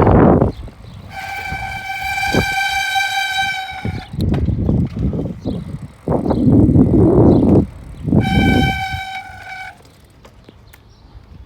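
A horn sounds two long steady blasts, the first about three seconds long and the second about a second and a half, over rushing wind noise on the microphone of a moving bicycle.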